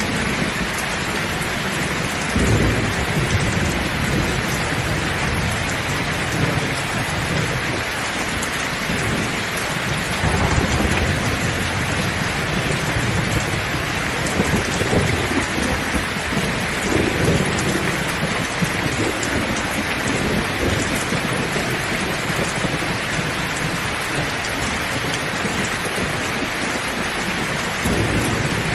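Heavy rain falling in a steady, dense hiss, with irregular low rumbles underneath that come and go.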